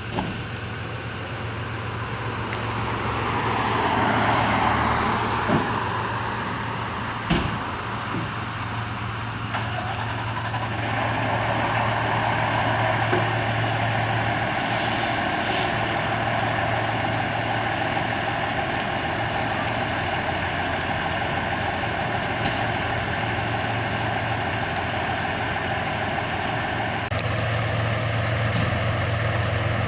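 A 2024 Rosenbauer Commander fire engine's diesel engine running steadily, with a short hiss of air brakes about fifteen seconds in.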